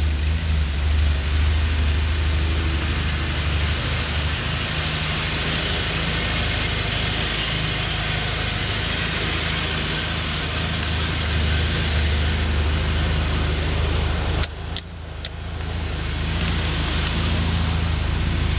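1978 Porsche 924's four-cylinder engine idling steadily shortly after a cold start. Two sharp clicks come about fifteen seconds in.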